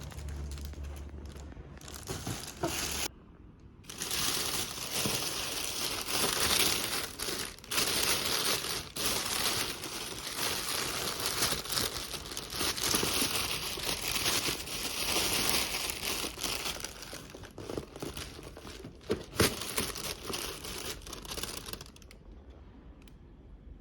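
Continuous crinkling and crackling noise with many small clicks, broken by a short gap about three seconds in and fading near the end.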